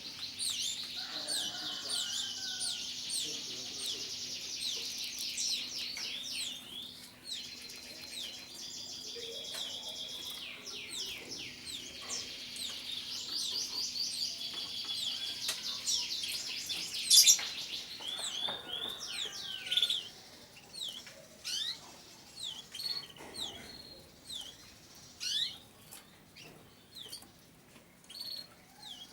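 Several domestic canaries singing, with fast rolling trills and chirps overlapping for most of the first twenty seconds, then thinning to scattered chirps. A sharp click about seventeen seconds in is the loudest sound, and a faint steady hum runs underneath.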